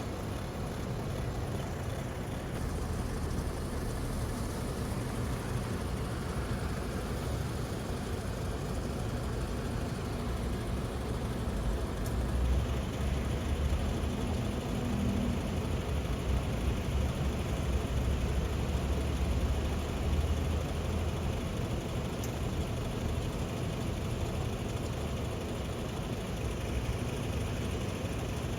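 Heavy truck engine running steadily, a deep low-pitched sound that grows a little louder about halfway through.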